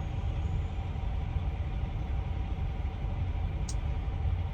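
Steady low rumble of a semi truck's engine, with faint even hum tones, and a single light tick near the end.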